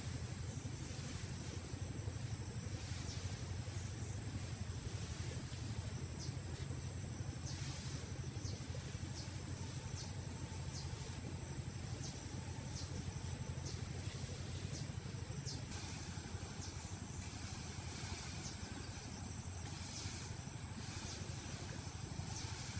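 A steady low engine hum with a faint hiss above it and a few light ticks.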